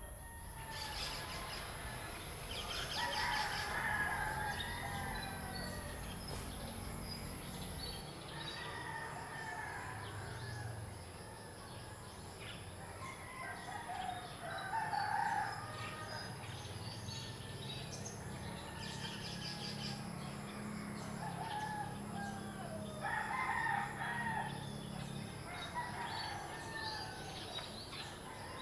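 Roosters crowing several times, each crow lasting a second or two, with small birds chirping in between.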